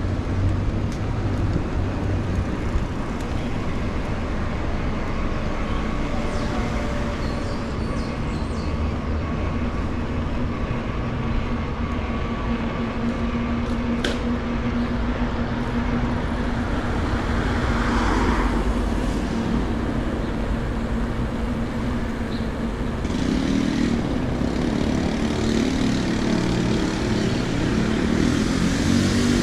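City street traffic: cars and other vehicles running and passing, over a steady low rumble, with a single sharp click about halfway through.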